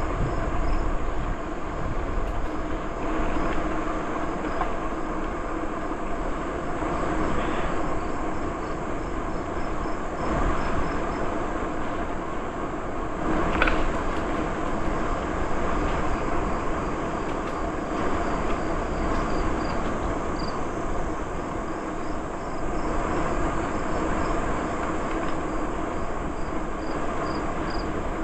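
Steady rolling noise of a bicycle ride: tyres on the trail surface and wind on the microphone, with faint rapid high chirping in the background and a brief click about halfway through.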